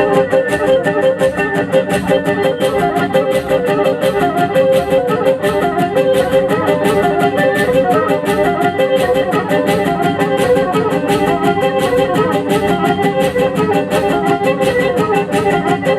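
Black Sea horon folk dance music led by a kemençe, the small bowed fiddle, playing a quick running melody over a fast, even beat.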